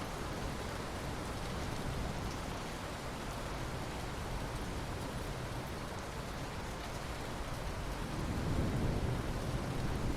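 Steady rain falling. Near the end a low rumble of thunder builds.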